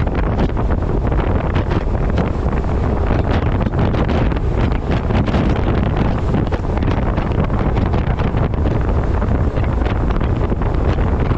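Heavy wind buffeting a microphone on a camera strapped to the front of a moving truck, a steady gusting rush with a deep rumble beneath.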